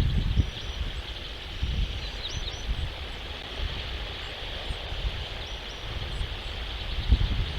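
Outdoor ambience at a bald eagle nest camera: wind buffeting the microphone in low gusts, strongest at the start and again near the end, over a steady high hiss. A few faint, very short high bird chirps come about two seconds in and again near the end.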